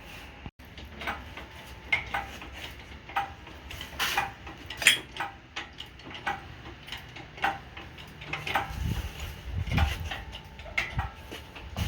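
Irregular metallic clinks and clicks, about one or two a second, from hand tools and metal parts being handled. A few duller low thumps join in near the end.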